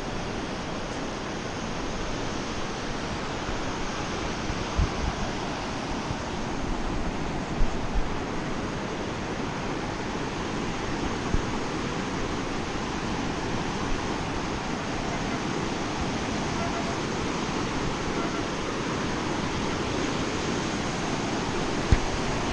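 Steady rushing of river rapids, with a few brief low knocks.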